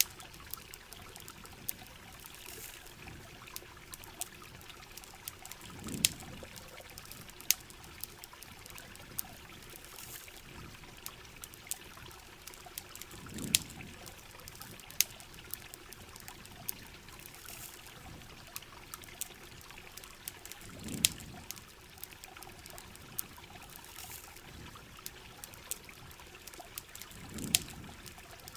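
Steady rain with trickling water, and sharp campfire crackles and pops scattered throughout. A short low swell comes back about every seven and a half seconds.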